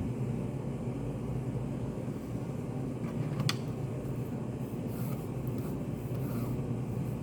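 Study-cafe room ambience: a steady low hum, with a single sharp click about halfway through and a few faint light ticks near the end.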